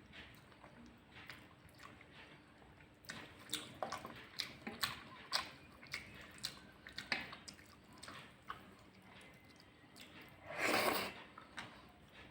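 Close-miked eating sounds: wet chewing and lip smacks of a mouthful of rice and curry, starting about three seconds in, with one longer, louder wet sound about ten seconds in.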